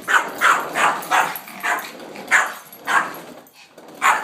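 Dog barking at a vacuum cleaner that is switched off: a run of short, sharp barks, roughly two a second, with a brief pause before the last one.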